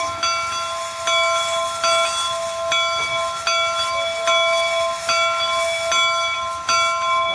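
Locomotive bell on the Union Pacific No. 119 replica 4-4-0 steam engine ringing steadily, struck about once every 0.8 seconds, over a steady hiss of steam.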